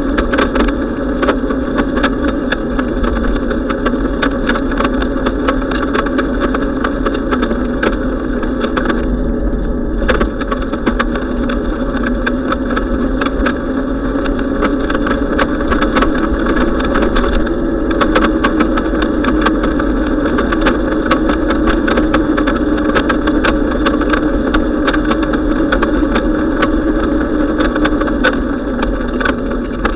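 Continuous riding noise from a bicycle on the move: low wind rumble on the microphone and a steady hum that rises in pitch partway through and stays higher, with frequent sharp ticks and rattles throughout.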